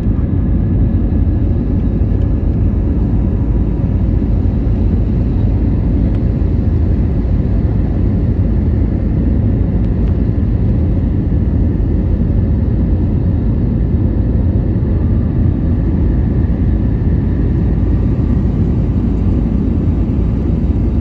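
Jet airliner climbing after takeoff: a steady low roar of engines and airflow with a faint whine.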